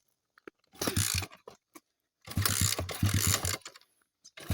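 A 50cc dirt bike being kick-started three times: each kick ratchets the kick-starter and cranks the engine over in a short burst of rapid pulses, and the engine does not catch. The bike has been sitting, and it is hard to kick.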